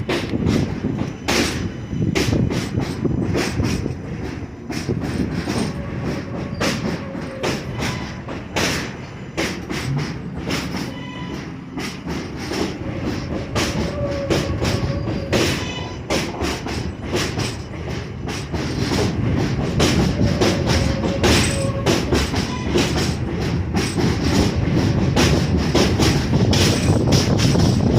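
R143 subway train in motion on the L line, its wheels clacking irregularly over rail joints and switches above a steady rumble, with a few brief faint wheel squeals. The rumble grows louder in the last third.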